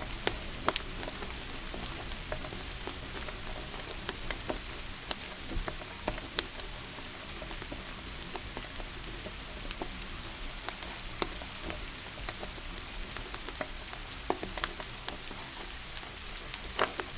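Steady hiss of falling rain, with the irregular sharp crackles and pops of a wood fire burning in a fireplace.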